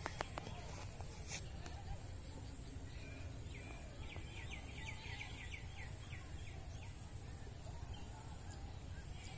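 Rural outdoor ambience: a steady low rumble, with a bird giving a rapid run of short chirps from about three to six seconds in.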